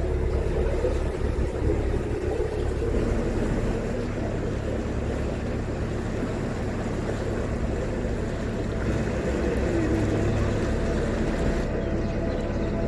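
Narrowboat's inboard diesel engine running steadily, a low, even hum.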